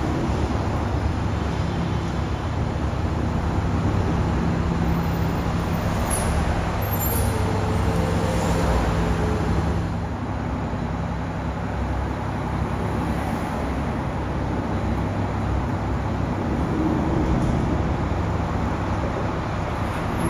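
Steady vehicle engine noise, a continuous low rumble with a hum that holds throughout.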